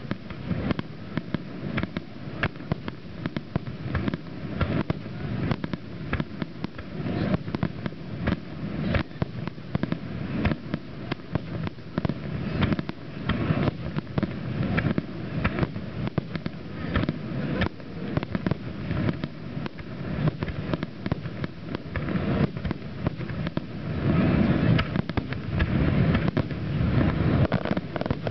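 Aerial fireworks bursting in rapid succession, with many overlapping bangs and crackles. Near the end they grow denser and louder, like a finale-style barrage.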